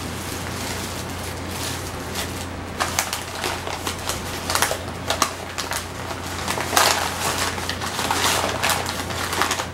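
Eating sounds of a grilled hero sandwich: irregular crunching and crackling chews and mouth clicks, mixed with crinkles of the deli paper wrapper, over a steady low hum.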